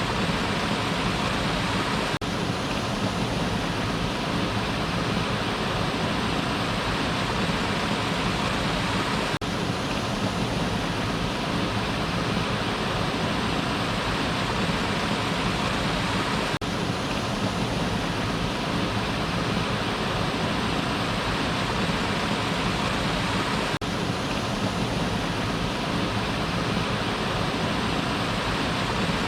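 Waterfall: a steady rush of falling water. A very brief dip in level recurs about every seven seconds, where a short recording is looped.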